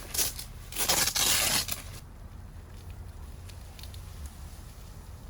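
Tent fabric and a urethane window panel being handled, giving several short rustling, tearing noises in the first two seconds. After that they stop suddenly, leaving only a faint low background.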